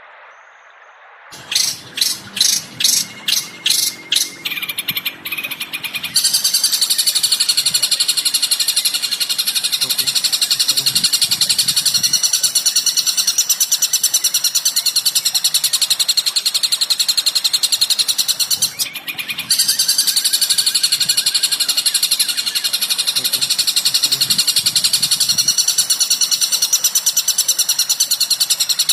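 Recorded bird calls: about seven sharp chip notes in quick succession, then a fast, unbroken chattering trill that stops briefly about two-thirds of the way through and resumes.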